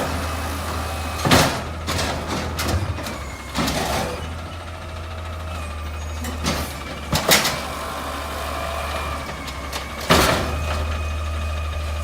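Refuse truck engine running with a steady low hum and a faint high whine, broken by four loud bangs a few seconds apart.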